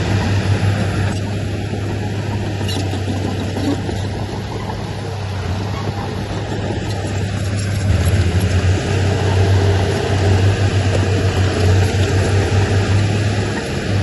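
Heavy diesel earthmoving machinery running steadily with a deep engine drone, working a little harder from about halfway through.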